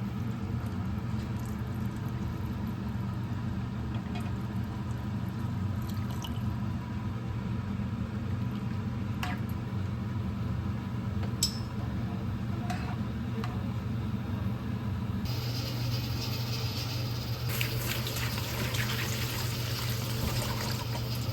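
Kitchen sounds: a steady low hum with a few light clinks, then water running, with a rush that comes in about two-thirds of the way through and grows louder a couple of seconds later.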